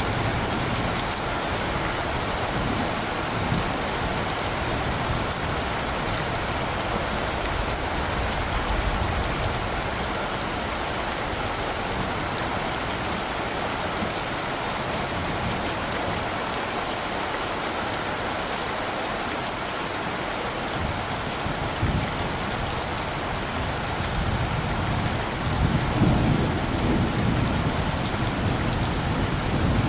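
Steady rainfall with many individual drops ticking. A low rumble of distant thunder swells near the end.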